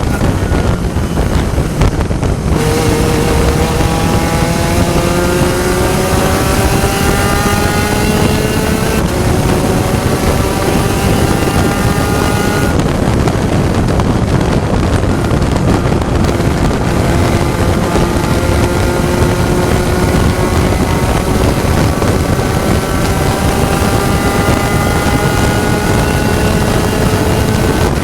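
Onboard sound of a Spec Racer Ford race car's four-cylinder engine accelerating hard, its pitch climbing through each gear and dropping at upshifts about nine and thirteen seconds in before climbing again. Heavy wind and road noise runs underneath.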